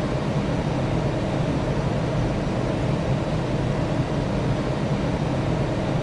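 Steady drone of noise inside an airliner's cockpit, from the engines and the airflow, with no change in level.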